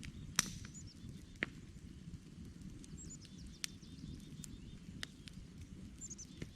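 Wood campfire crackling: scattered sharp pops and snaps over a low steady rumble of the burning logs, the loudest pop about half a second in. Faint high chirps, as of birds, repeat in the background.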